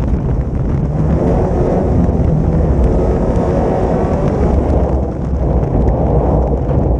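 Folk-race (jokkis) car's engine running hard at racing speed, heard from a roof-mounted camera with wind noise on the microphone; the sound briefly drops a little after five seconds in.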